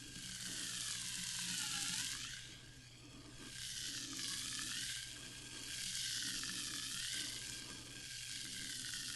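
Sparkling water fizzing: a crackling hiss of bursting bubbles that swells and fades every two seconds or so.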